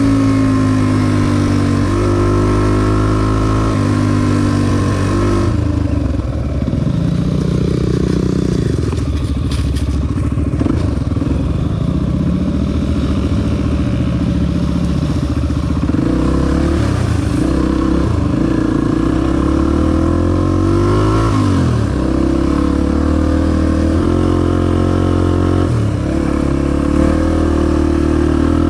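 Honda XR250 dirt bike's single-cylinder four-stroke engine running while riding, its revs stepping up and down with throttle and gear changes. About six seconds in the revs drop off and wander low for several seconds, then pick back up and hold steadier.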